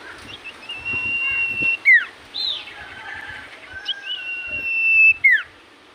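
Common iora (cipoh) singing: two long, level whistles, each about a second long and ending in a sharp downward slur, with a short arched note between them.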